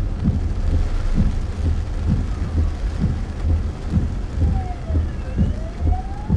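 Heavy rain drumming on a car's roof and windscreen, heard from inside the cabin: a dense patter with many irregular low thuds. Near the end a faint whine dips and then rises steadily in pitch.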